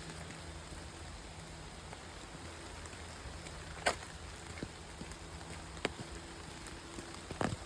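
Steady rain falling, with a few louder single drops tapping now and then, the sharpest about four seconds in and near the end.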